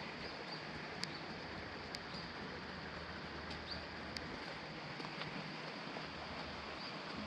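Wood campfire crackling: sparse sharp pops over a steady soft hiss.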